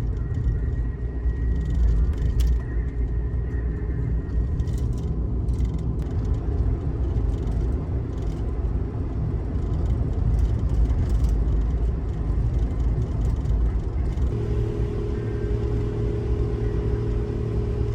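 Steady low rumble of a car driving, heard from inside the cabin. Background music comes in near the end.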